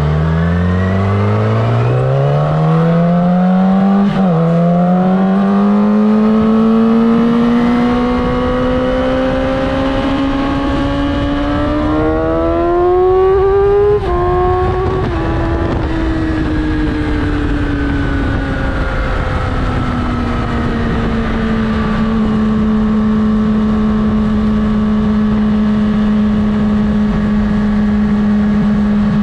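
Yamaha R6 sport bike's inline-four engine accelerating hard. Its pitch rises steeply, dips sharply about four seconds in as it shifts up, then climbs again. About fourteen seconds in the revs drop, and they ease down to a steady cruise for the last third.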